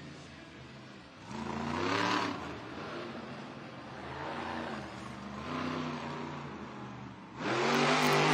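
Monster truck's supercharged V8 engine revving in repeated bursts, its pitch rising and falling, loudest about a second in and again near the end.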